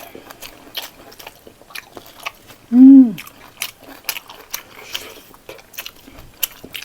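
Close-up mouth sounds of a person chewing a mouthful of rice and pork gravy: wet clicks and lip smacks throughout. About three seconds in comes a short hummed vocal sound, rising then falling in pitch, the loudest sound.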